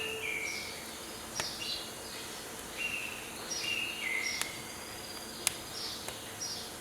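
Songbirds singing repeated phrases of short whistled notes, some held flat and some sliding down, over a steady background hiss. Three sharp pops from firewood crackling in a wood stove, the loudest one near the end.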